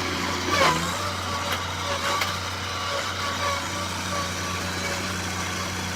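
A vehicle engine running steadily, with a few short knocks.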